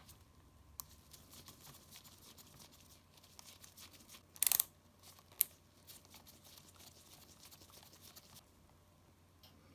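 Close-up handling sounds of a Nintendo Switch being worked on with small tools: faint ticks and scrapes, a short crackling scrape about four and a half seconds in, then a single sharp click.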